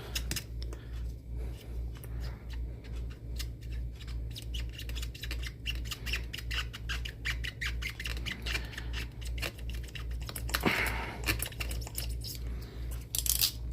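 A hand blade sawing and cutting into the hard plastic of a snow globe, a rapid run of short scratchy strokes and squeaks.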